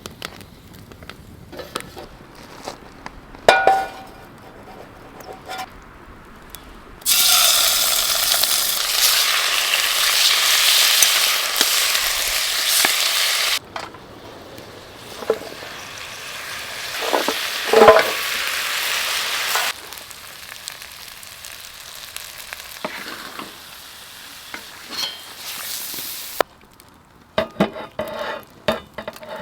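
Chicken frying in a pan, a loud even sizzle that starts suddenly about seven seconds in and carries on for more than ten seconds, dropping back to a quieter sizzle later. Stirring in the pan, with a few sharp knocks of a utensil against it.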